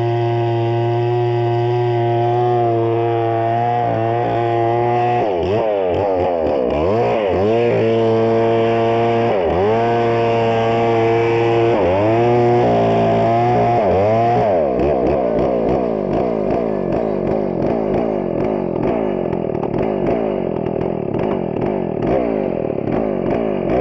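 Chainsaw cutting wood. The motor runs at a steady pitch, then drops and recovers in pitch several times as it bites into the wood, and from about halfway through it runs under steady load with a rough, wavering tone.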